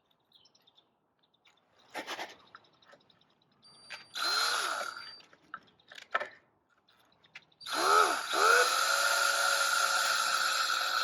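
Power drill driving screws into wood: a short burst about four seconds in, then a longer steady run that spins up about eight seconds in and holds, with a few knocks of handling beforehand.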